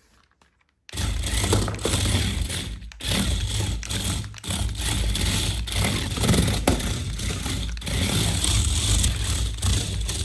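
Toy remote-control car's small electric motor and plastic gearbox running, starting suddenly about a second in and going on steadily with a rattling, scraping edge.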